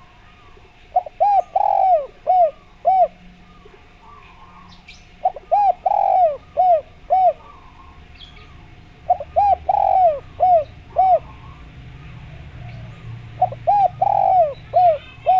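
Spotted dove (derkuku) cooing: four phrases of about five short, arched coo notes each, repeating roughly every four seconds.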